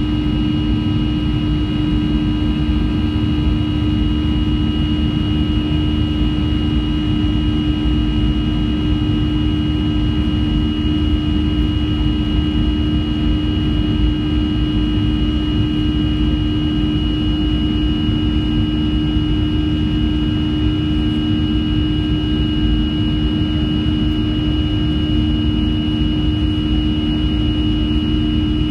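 Cabin noise of a Boeing 737-300, its CFM56-3 turbofans running steadily. It is a constant drone with a low hum and a thin high whine over it.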